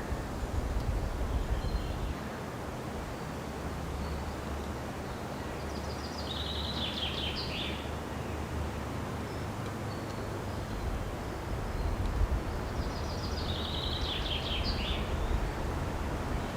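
Lesser spotted woodpeckers calling: two rapid series of high, fast-repeated notes, each lasting about two seconds and several seconds apart, over a steady low rumble.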